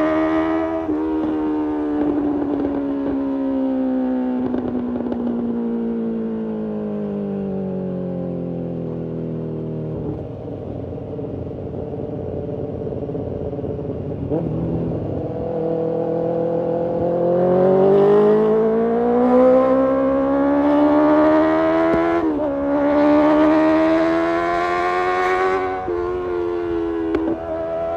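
BMW S1000RR inline-four engine and exhaust at the rider's seat. Over the first ten seconds the engine note falls as the throttle is eased, then it stays low for a few seconds. It then climbs under acceleration, with a sudden drop in pitch about two thirds through, like a quick upshift, rising again before falling back near the end.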